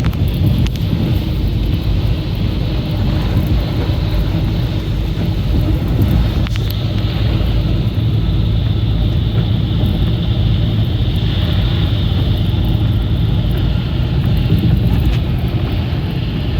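Steady road noise of a car being driven on a snowy road, heard from inside the cabin: a low engine hum under the rush of the tyres.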